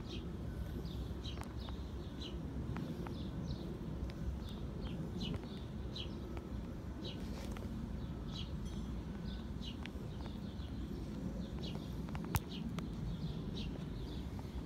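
Small birds chirping in short, repeated calls over a steady low background noise, with a single sharp click about twelve seconds in.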